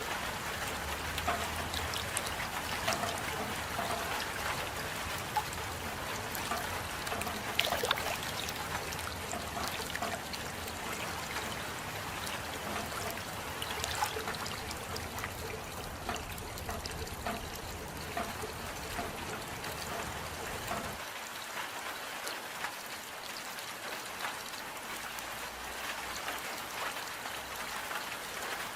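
Steady rain with scattered close drips and trickling water. A low rumble underneath falls away about two-thirds of the way through.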